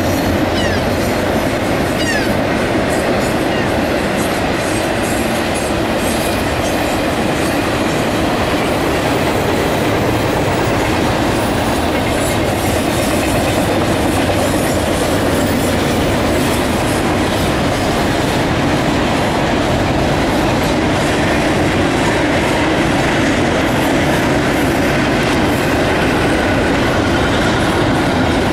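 CSX double-stack container train's well cars rolling past at speed: a loud, steady rumble of steel wheels on the rails.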